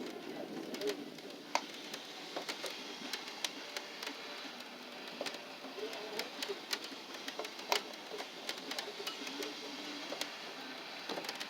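Pigeons cooing in short low phrases, over a steady run of irregular sharp ticks and taps.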